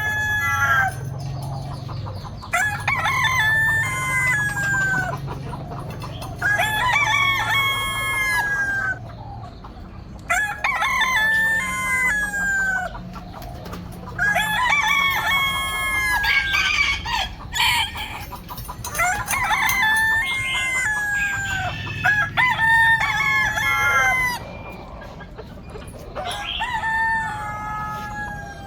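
Several roosters crowing one after another, a crow every few seconds, with some crows overlapping.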